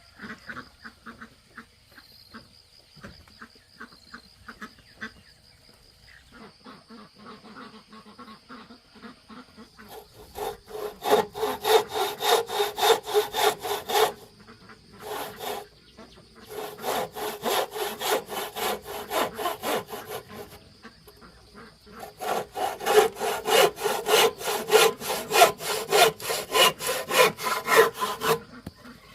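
Hand saw cutting wood in quick back-and-forth strokes, about four a second, in three long runs with short pauses between them. A few light ticks come before the first run, and a faint steady high tone runs underneath.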